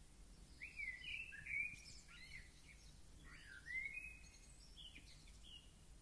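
A songbird singing two short phrases of gliding, whistled notes, the first starting about half a second in and the second around the middle, over faint low background noise.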